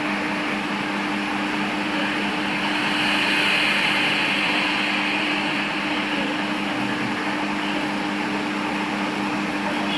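A motor running steadily, a constant two-note hum under an even hiss.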